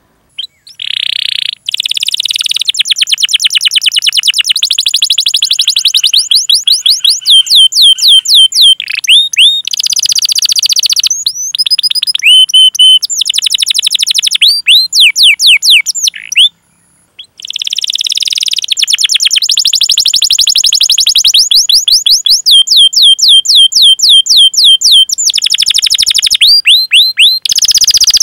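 Domestic canary singing a long song: fast rolling trills alternating with runs of quick, downward-sweeping 'cuit cuit' chirps. There is a brief break near the start and another about halfway through.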